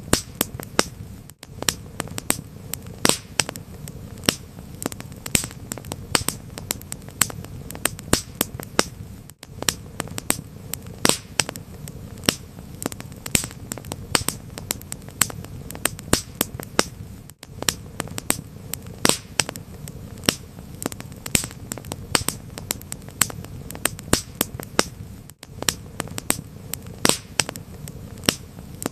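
Fire in a fireplace crackling: dense, irregular sharp snaps and pops over a steady low hum and hiss. A brief dropout comes roughly every eight seconds.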